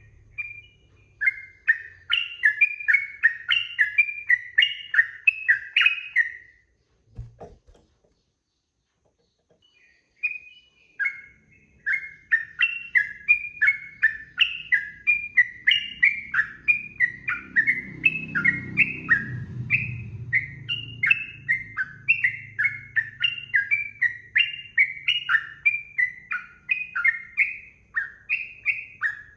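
Yellow-vented bulbul (trucukan) singing a fast run of repeated rising-and-falling whistled notes. The song breaks off for about four seconds, with a single short knock in the pause, then resumes as a longer, steady run.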